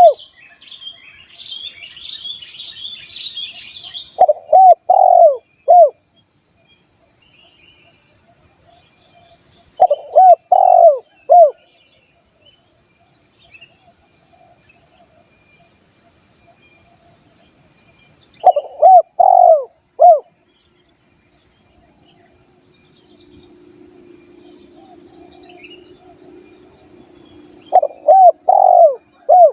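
Spotted dove (tekukur) cooing: a phrase of three or four rounded coos, repeated four times at intervals of about six to nine seconds. Small birds chirp briefly in the first few seconds, and a steady high-pitched trill runs behind throughout.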